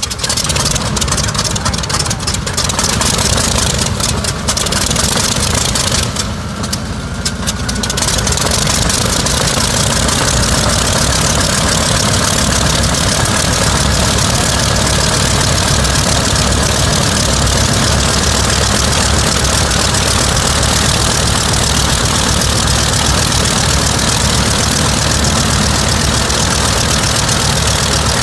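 Mitsubishi Zero fighter's radial engine starting up: it catches and runs unevenly for the first several seconds, sagging briefly about six seconds in, then settles into a steady idle.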